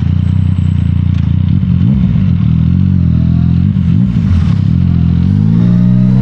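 Yamaha MT-09's three-cylinder CP3 engine running through an Akrapovic full titanium exhaust while being ridden. Its pitch eases down and back up a few times with the throttle, then climbs steadily near the end.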